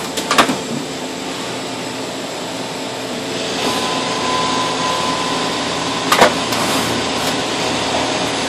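Okuma LT200MY CNC lathe running: a steady machine hum and hiss, with a steady whine joining about halfway through and a couple of sharp clicks, one near the start and one about six seconds in.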